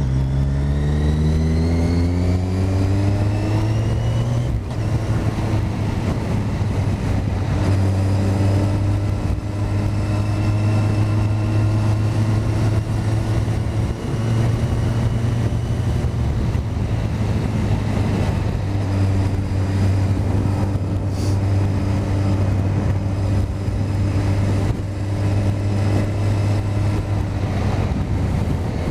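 Motorcycle engine pulling hard with its pitch rising over the first four seconds, then a gear change and a steady cruising note, easing off briefly twice later on.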